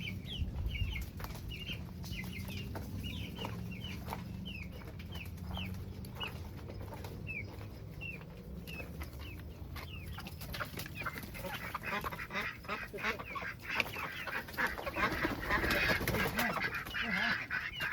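Backyard hens clucking while chicks keep up a run of short, high peeps. The calling grows busier and louder over the last few seconds.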